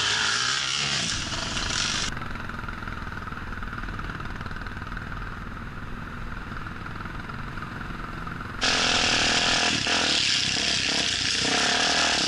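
Off-road motorcycle engine running. The sound turns abruptly muffled about two seconds in, then comes back full and loud a few seconds before the end.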